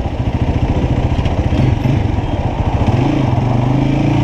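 Motorcycle engine running under way, with a fast low pulsing for the first three seconds, then settling into a steady tone that climbs slightly in pitch.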